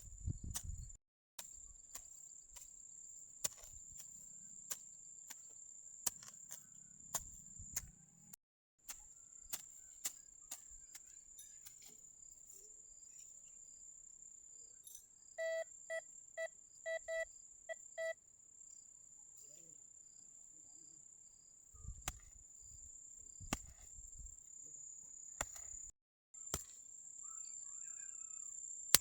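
A metal detector gives a quick run of about seven short, evenly spaced beeps about halfway through. Around it are scattered sharp knocks and clicks and a steady high-pitched insect drone.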